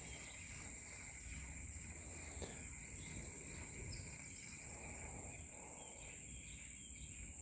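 Insects calling in a steady, high, continuous drone, over a faint low rumble.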